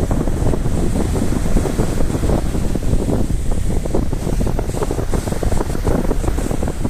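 Wind buffeting the microphone in a loud, gusty rumble.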